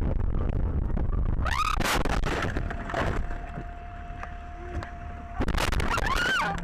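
Car crash recorded by a dashcam: loud noisy crashing about a second and a half in and again near the end, with short squealing glides, and a quieter stretch between them with a steady tone.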